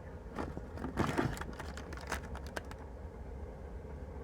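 A few light clicks and crackles from objects being handled, clustered about a second in, over a low steady hum.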